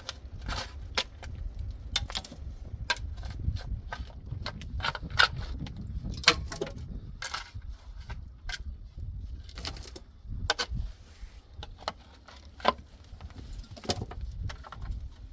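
Irregular clicking and rattling: many sharp taps spread unevenly, some louder than others, over a steady low rumble.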